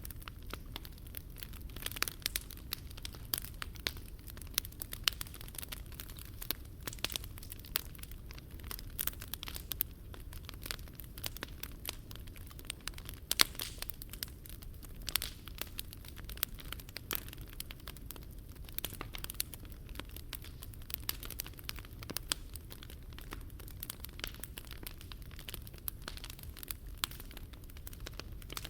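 Wood fire burning in a portable fire stand, crackling and popping with many irregular sharp snaps over a low steady rumble of flame.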